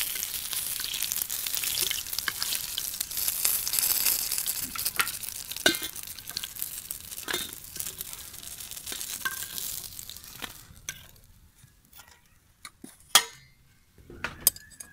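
Cauliflower pakoras sizzling in hot oil in a frying pan, with a metal ladle clicking and scraping against the pan as they are lifted out. About ten seconds in the sizzling stops, leaving a few sharp clinks.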